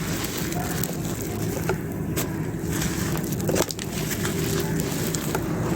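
Fully dry clay pot pieces being crushed and crumbled: a dense, crunchy crackling broken by a few sharp snaps.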